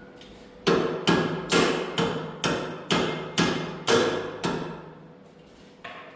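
Hammer striking metal: nine sharp blows, about two a second, each ringing briefly, then one fainter knock near the end.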